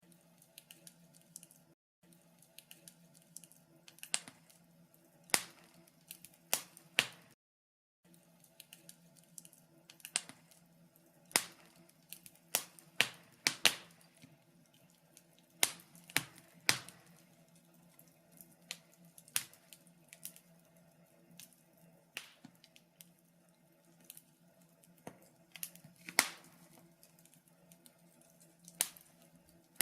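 Wood fire crackling in a fireplace: irregular sharp pops and snaps, a few of them much louder, over a faint steady low hum. The sound drops out briefly twice in the first eight seconds.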